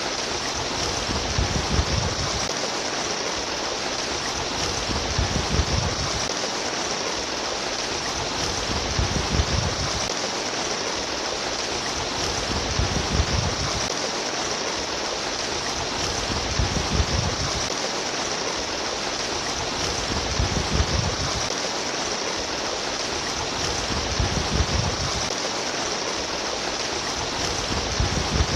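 Steady babbling water, a continuous splashing hiss, with a low gurgling swell recurring about every four seconds.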